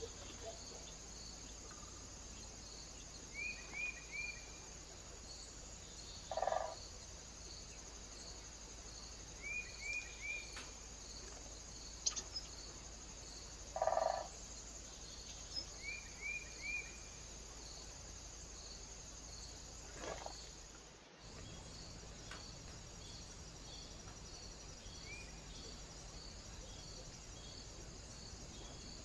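Birds calling at a feeder: short groups of three quick high chirps recur every several seconds, and two louder, lower, harsher calls come a third and halfway through. Under them runs a steady faint hiss with a fast regular high pulsing, which briefly drops out about two-thirds of the way in.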